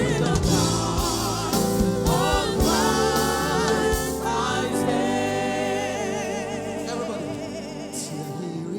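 Live gospel worship music: voices singing over a band with drums. The drums drop out about halfway through, and the music thins and fades gradually toward the end.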